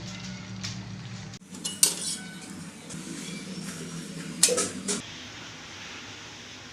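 Dishes and metal utensils clinking and clattering, with a sharp clatter about two seconds in and a longer clatter around four and a half seconds in, over a low steady hum that stops about five seconds in.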